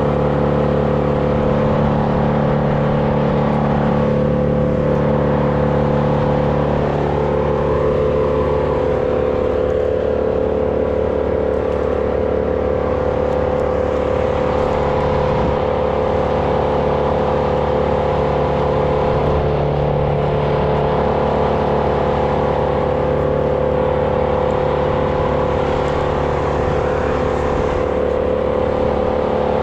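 A small engine running steadily at an even pitch throughout, with no revving.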